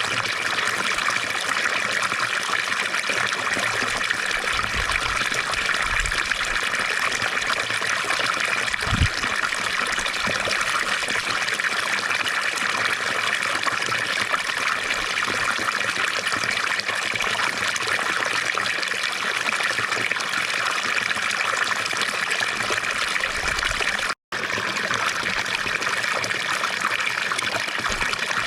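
Water from a fountain splashing and trickling steadily, an even rushing patter. Near the end it cuts out completely for a split second and comes straight back.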